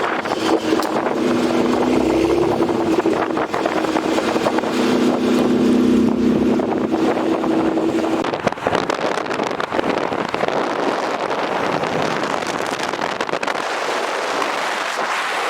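A car driving: a steady engine drone for several seconds, under continuous road and wind noise.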